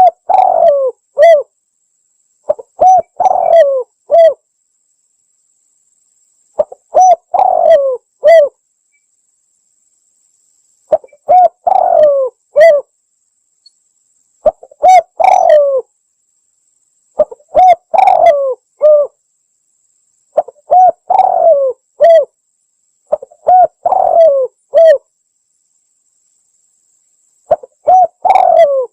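Spotted dove (tekukur) cooing: about nine phrases of several low coos each, one roughly every three seconds, with silence between them, played as a lure call for trapping tekukur.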